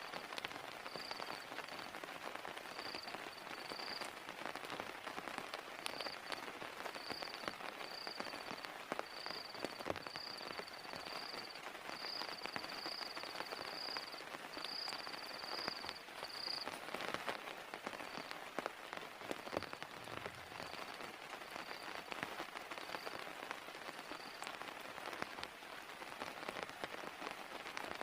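Heavy rain falling steadily, with scattered sharp drop hits. A faint high chirping tone repeats on and off through most of the stretch.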